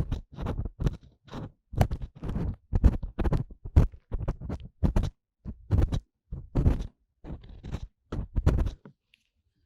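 Ear pick working inside the ear of a 3Dio binaural dummy-head microphone: a quick series of close, scratchy scraping strokes, about two a second, that stop a little before the end.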